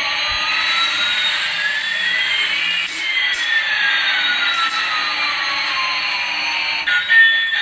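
A toy aircraft's steady, jet-like whooshing hiss, with one tone sweeping up and another sweeping down that cross about three seconds in and then part again. It stops shortly before the end.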